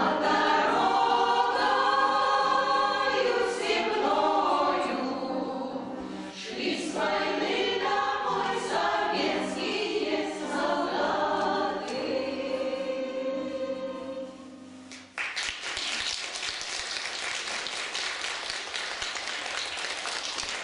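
Amateur veterans' choir singing in unison and harmony, ending the song on a held note, then audience applause from about three-quarters of the way through.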